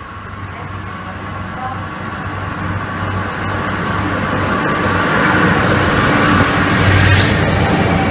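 A freight train hauled by an SNCF Fret locomotive approaching through a station and drawing close, its rumble and rail noise growing steadily louder as it comes up to the platform.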